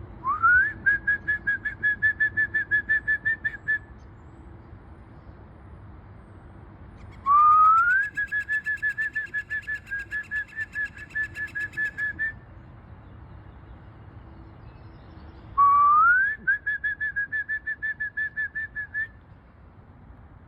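A woodpecker calling three times: each call opens with a short rising note and runs straight into a fast, loud string of identical notes, about eight a second, for three to five seconds.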